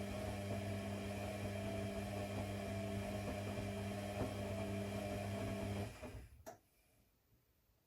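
Steady electrical hum that cuts off abruptly about six seconds in, followed by a single click and then near silence.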